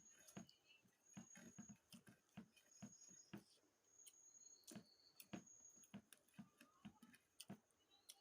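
Faint close-miked chewing and wet mouth clicks of someone eating chicken curry and rice, in short irregular bursts.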